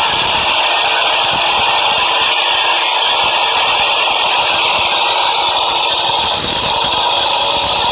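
Subway train running, a steady loud noise with no let-up.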